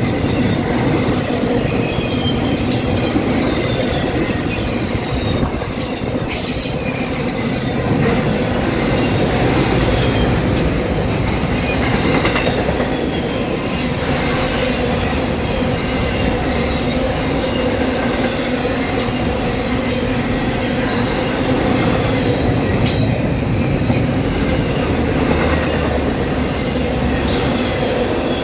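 Norfolk Southern freight train rolling past: a steady heavy rumble of wheels on rail, with a constant squealing tone from the wheels and scattered sharp clicks from the rail joints.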